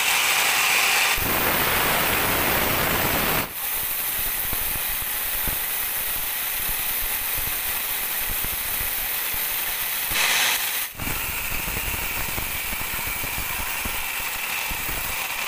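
Sawmill band saw running and cutting through a teak log, a steady hissing noise that breaks off abruptly and resumes about 3.5 seconds and 11 seconds in.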